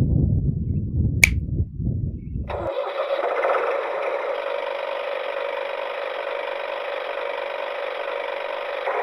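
Tractor engine sound starting up: a low rumble with one sharp click about a second in, then from about two and a half seconds in a steady, thin-sounding engine running evenly with no deep bass.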